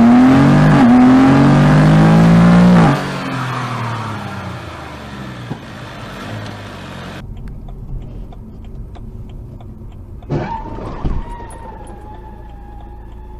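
Car engine revving hard, its pitch climbing and falling, for about three seconds, then dropping to a quieter rush that cuts off abruptly about seven seconds in. After that come faint ticks, a sudden sweeping sound about ten seconds in, and a steady tone.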